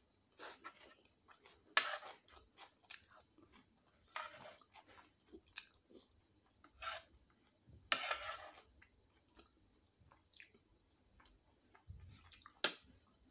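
Close-up chewing and biting sounds of a person eating chole (chickpea curry) and puri, in irregular bursts, with a sharp click near the end, likely a steel spoon against the plate.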